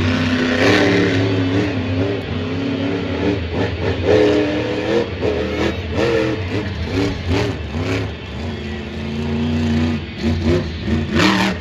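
Monster truck's supercharged, alcohol-fuelled engine revving hard and repeatedly, its pitch climbing and dropping several times a second or two apart, with a sharp bang near the end.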